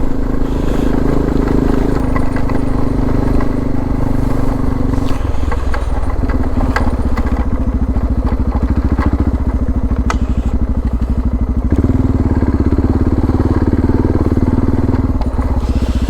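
Suzuki DR650's single-cylinder four-stroke engine running with an even, pulsing beat; its note changes at about five seconds and steps up again at about twelve seconds.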